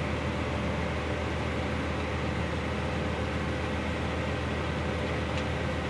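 An engine idling steadily in the background: a constant low hum with a faint steady tone above it.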